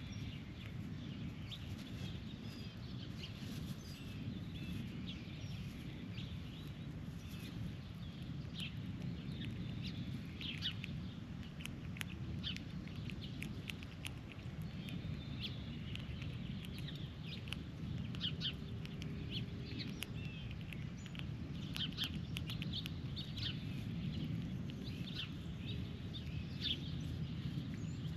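Birds calling outdoors, many short, sharp chirps and chips scattered throughout, over a steady low rumble.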